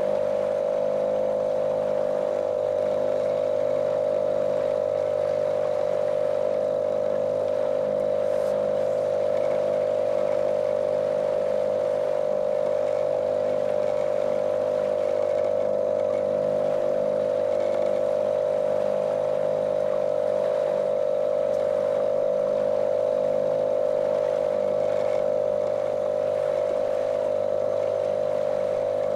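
Small motorboat's outboard engine running at a steady cruising speed, a monotonous drone that holds the same pitch and level throughout.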